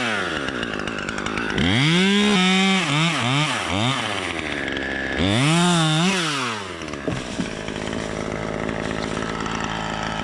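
Two-stroke chainsaw revving up and down in two long bursts, then running more steadily and a little quieter for the last few seconds.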